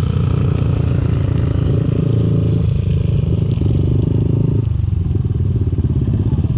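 Motorcycle engine running steadily while riding, its note shifting a few times partway through, over steady wind and road noise.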